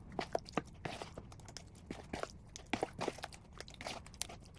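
Beef slices in a spice and vinegar marinade being mixed by hand, a quick irregular run of soft clicks and taps.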